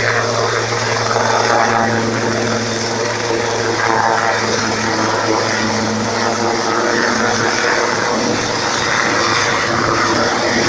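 Helicopter engine and rotor running loud and steady, a constant mechanical hum with no sudden impact.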